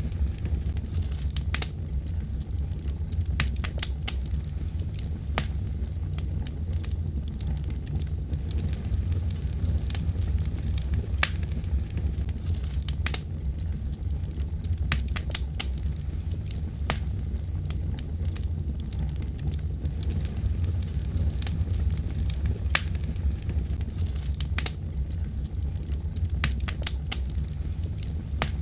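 Fire crackling: a steady low rumble of flame under irregular sharp pops and snaps, sometimes several in quick succession.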